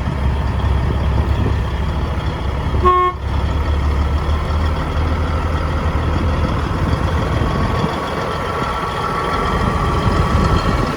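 Heavy truck engine running with a deep rumble, with a short horn toot about three seconds in. The rumble fades about six seconds in, leaving a steady vehicle noise.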